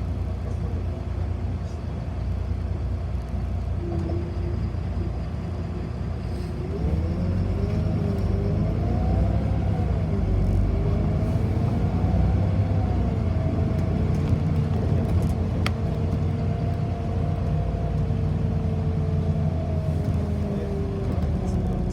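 City bus heard from inside the cabin: a steady low rumble that grows louder about seven seconds in, joined by a whine that rises and falls in pitch as the bus changes speed.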